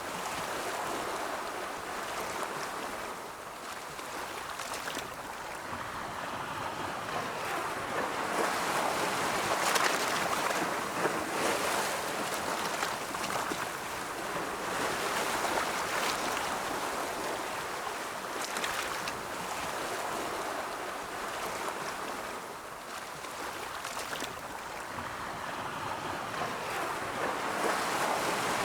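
Ocean surf: rolling waves, a continuous wash of water that swells and falls back every several seconds.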